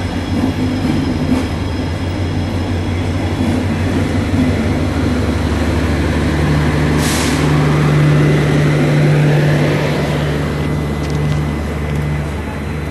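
Passenger coaches of an express train rolling past a platform as the train enters the station: a steady rumble of wheels on the track, with a brief hiss about seven seconds in.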